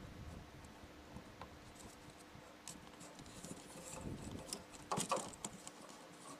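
Faint rustling and light clicks of hands working plastic vacuum-hose connectors on an evap purge solenoid valve, with a sharper cluster of clicks about five seconds in.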